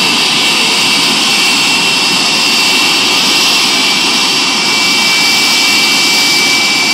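Pratt & Whitney JT8D turbofan running steadily on a ground test run after being rebuilt: a loud, continuous rush of jet noise with a steady high-pitched whine over it.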